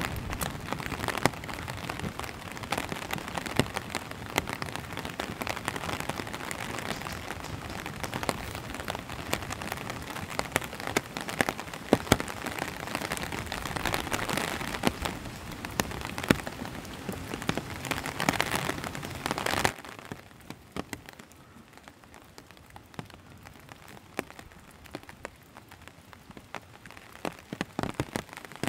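Steady rain falling, a dense hiss with many separate drop hits close by. About two-thirds of the way through it suddenly drops to a quieter, sparser fall of drops.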